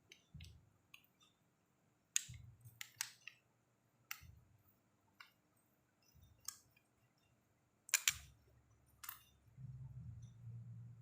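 Irregular sharp clicks and taps of small tools and parts being handled on a repair bench, with a low rumble of handling noise in between, strongest near the end.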